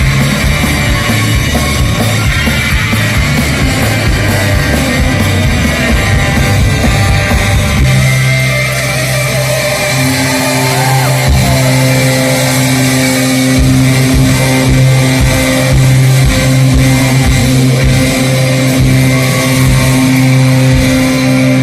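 Live rock band playing loudly, with guitars and drums. About eight seconds in, the band settles into a long held chord with drum hits over it.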